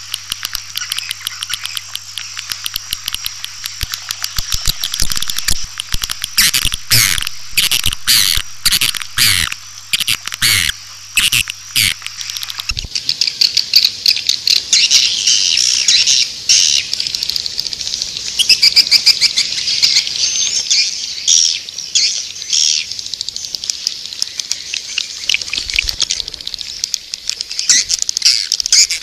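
Swiftlet calling sound, the lure call played at swiftlet houses: many edible-nest swiftlets chattering, dense, rapid, high-pitched twittering and clicking chirps. About thirteen seconds in, a low hum under it stops and the twittering turns into a thicker, more continuous chatter.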